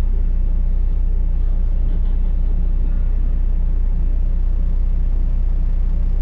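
Double-decker bus running, heard from inside: a steady low rumble of engine and road noise.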